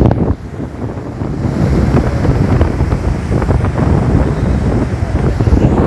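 Sea waves surging and breaking, with heavy wind buffeting the microphone. The sound drops briefly just after the start and builds again over the next second or so.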